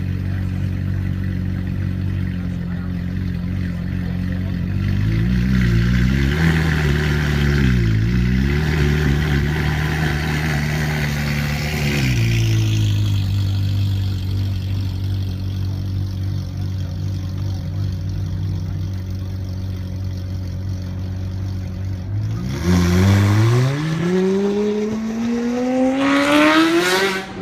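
Ferrari 458 Italia's 4.5-litre V8 through an IPE F1 exhaust, running steadily with a few brief changes in pitch. Near the end it revs in one long, loud rise to high revs before cutting off.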